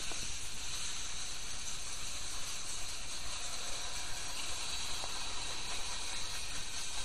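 Freight train cars rolling past close by, a steady hiss of steel wheels on the rail.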